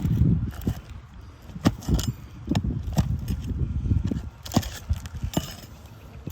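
Irregular sharp clicks and knocks with scraping and rustling in between: hand tools and metal working on an asphalt shingle roof during a shingle repair.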